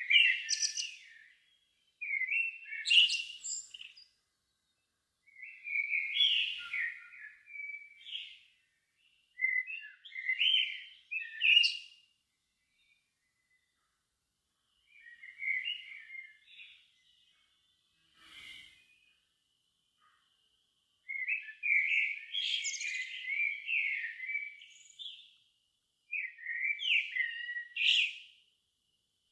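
Evening songbird song: a bird sings a series of short varied phrases, each one to four seconds long, with pauses of a second or two between them. A short sharp call comes about two-thirds of the way through.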